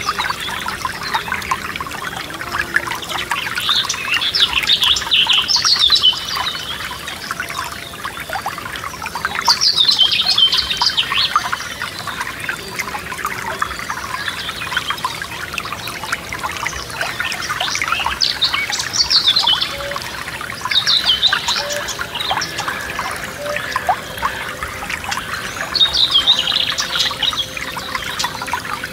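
Forest stream trickling steadily, with songbirds singing short phrases over it every few seconds.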